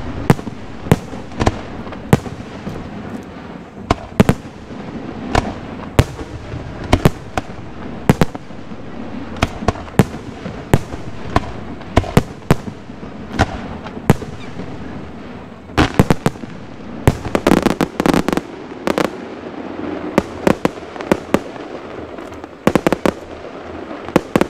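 Aerial fireworks shells bursting in a steady series of sharp bangs, about one or two a second, with a dense run of rapid bangs about two thirds of the way through and another short cluster near the end.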